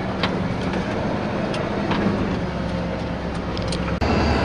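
Tour bus engine running steadily, with a few light clicks and rattles; about four seconds in the engine sound turns abruptly louder and steadier.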